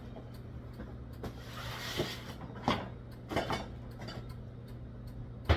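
A few scattered knocks and clinks of hard objects being handled, with a brief rustle about two seconds in and one louder sharp knock near the end, over a steady low hum.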